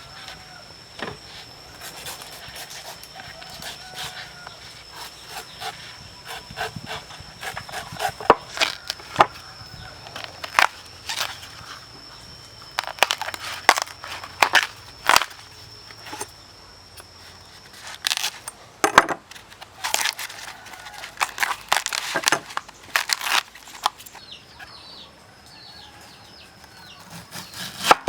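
Irregular sharp knocks and clatter, some in quick clusters, over a steady high-pitched whine that stops near the end, followed by short chirps.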